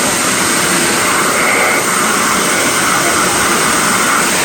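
Large shop vac running in blower mode, a steady loud rush of air with a whine, blasting dust out of an upright vacuum cleaner's motor.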